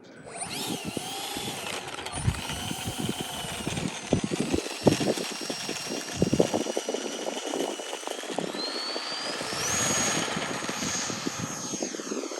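Electric ducted-fan motor of an RC F-86 Sabre model jet whining. Its pitch shifts, then rises sharply about nine seconds in and holds high as the throttle goes up, with wind buffeting the microphone.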